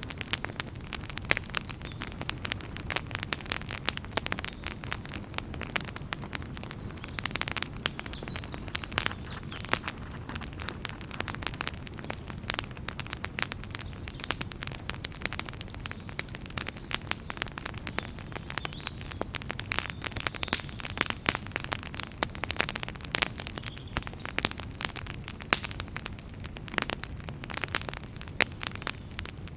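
Wood fire crackling: a dense run of irregular sharp pops and snaps over a low steady rumble of flames.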